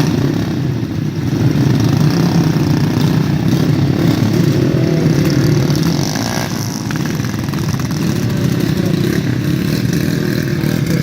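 Dirt-track racing motorcycle engines running loud and steady at speed, the level dipping slightly just past the middle.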